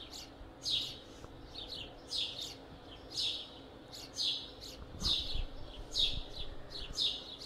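Small birds chirping as a recorded sound effect: short high chirps, singly and in quick pairs, roughly two a second.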